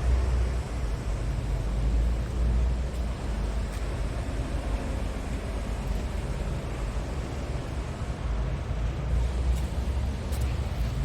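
Scania tractor unit's diesel engine idling steadily, a low even rumble.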